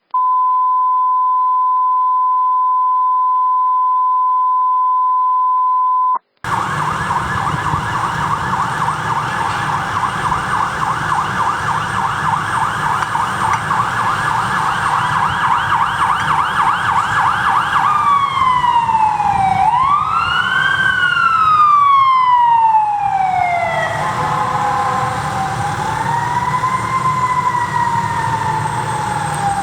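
Opens with a steady single high tone for about six seconds that cuts off. Then a fire engine's electronic siren sounds in a fast yelp, changing about 18 seconds in to a slow wail that rises and falls, with a heavy truck engine's low rumble underneath.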